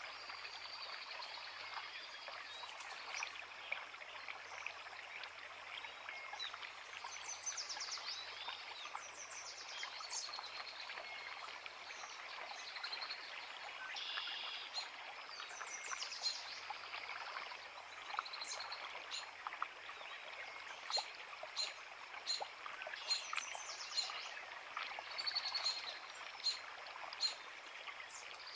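A creek running steadily, with several songbirds singing and chirping over it; quick runs of short, sharp chirps come thicker in the second half.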